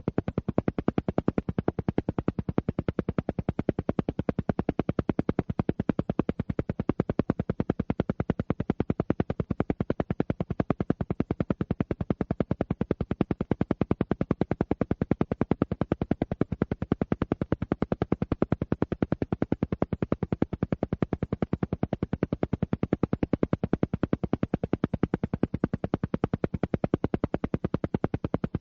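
Alpha-wave isochronic pulse track: a steady train of short, evenly spaced pulses, roughly ten a second, repeating without change, the kind of rhythmic beat used for brainwave entrainment.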